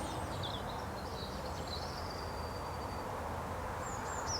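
Small birds chirping faintly over a steady low background hum, with a run of short, high, falling chirps near the end.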